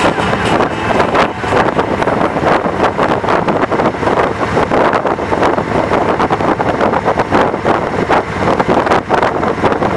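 Wind buffeting the microphone during a fast downhill bike ride, with steady road rumble and quick irregular rattles throughout.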